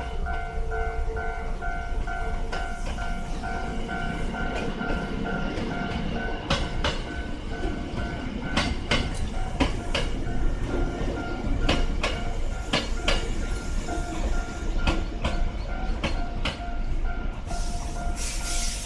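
Hankyu 6300 series electric train running along the track with a low rumble, its wheels clicking sharply over rail joints from about six seconds in. A level-crossing warning bell rings in a steady pulse throughout, and a short hiss comes near the end.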